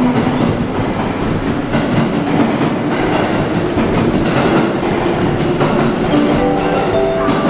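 Electric commuter train running along the platform, its wheels clattering over the rail joints. Several steady pitched tones come in near the end.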